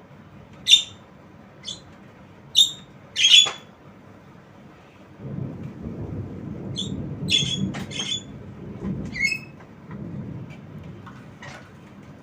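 Javan myna giving a string of short, sharp, squawking calls in two bunches, with a low rumbling noise in the middle of the stretch.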